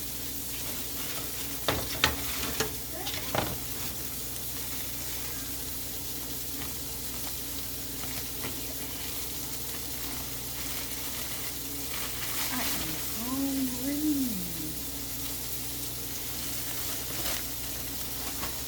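Burger patties frying and sizzling in a pan, a steady hiss throughout. A few sharp clicks of utensil on pan come in the first few seconds, and a brief wavering voice sound comes about two-thirds of the way through.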